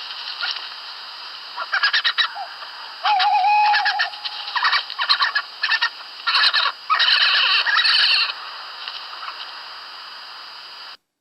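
Recorded badger calls: irregular bursts of short, chattering squeals and cries with brief pauses between them, cutting off abruptly near the end.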